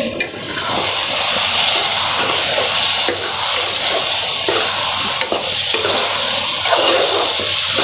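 Curry masala with boiled eggs and dried fish sizzling in oil in a non-stick pan while a steel spoon stirs it: a steady frying hiss with the irregular scrape and slosh of the stirring.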